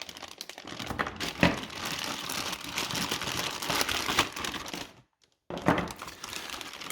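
Plastic bag crinkling as the power supply's modular cables are rummaged through, a brief pause about five seconds in, then more crinkling.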